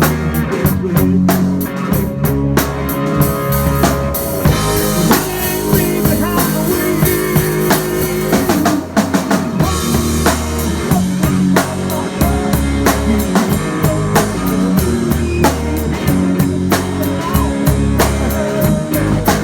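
Live band playing an instrumental passage of a song, driven by a drum kit with steady kick and snare hits over a sustained bass line.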